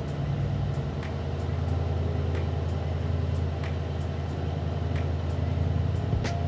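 Mercedes-AMG C63 S 4.0-litre twin-turbo V8 idling steadily with a deep exhaust hum, slightly louder from about a second and a half in.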